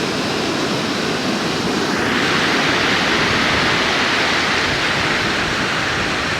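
Ocean surf washing in at the shoreline, a steady rushing hiss that swells about two seconds in as a wave breaks and runs up the sand.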